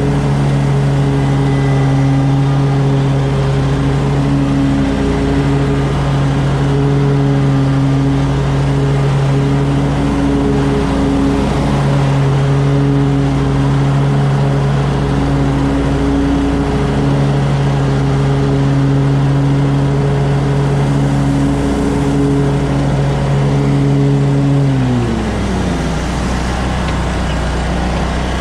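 Lawn mower engine running steadily at a constant pitch, then winding down in pitch about three-quarters of the way through as it is throttled back or shut off.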